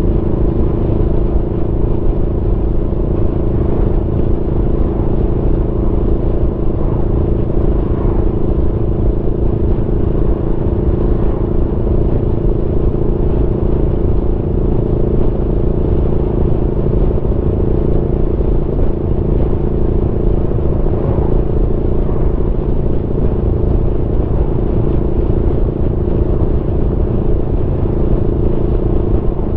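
Aprilia Tuono V4 motorcycle's V4 engine running at a steady, nearly unchanging speed while riding, with no gear changes or revving, over a constant low rumble.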